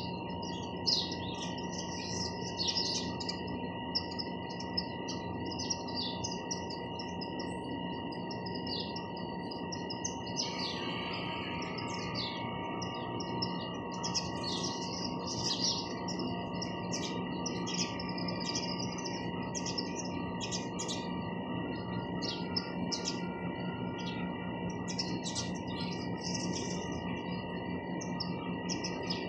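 House sparrows chirping: many short, quick chirps overlapping in an irregular chatter, busier from about a third of the way in, over a steady background hum.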